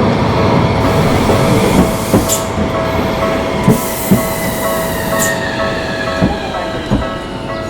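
Tokyu Setagaya Line train running over the level crossing, its wheels knocking several times over the rail joints, while the crossing's warning bell rings steadily.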